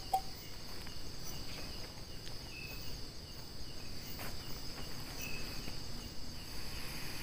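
Night insects chirping: a steady high-pitched drone, with a short chirp repeating every couple of seconds and a faint click about four seconds in.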